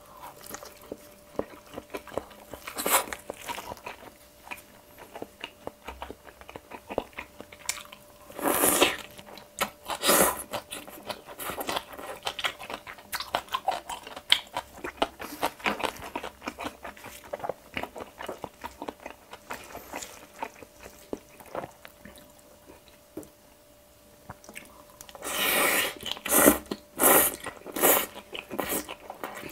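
Close-miked chewing: wet mouth sounds and many small clicks as a person eats pan-fried mushroom jeon and then bibimbap. There are louder bursts around three, nine and ten seconds in, and a cluster of loud ones near the end.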